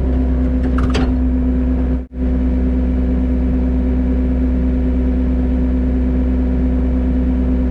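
Excavator's diesel engine running steadily under hydraulic load, a constant drone with a steady pitched hum, as the bucket and thumb grab and lift brush. The sound cuts out briefly about two seconds in.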